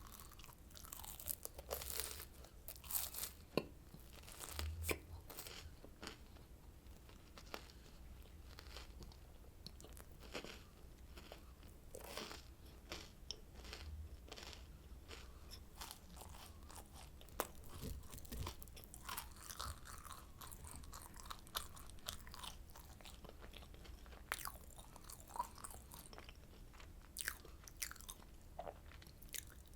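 Oranda, a crunchy Korean sweet of puffed grain clusters bound in hardened syrup, being bitten and chewed, with many sharp, irregular crunches.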